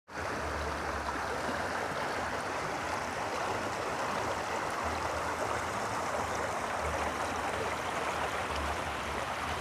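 Stream water rushing and splashing in a steady, even wash.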